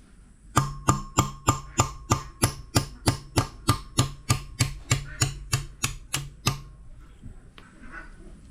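A hammer striking metal in a fast, even run of about twenty blows, nearly four a second, each with a short metallic ring. The blows start about half a second in and stop suddenly near the seven-second mark.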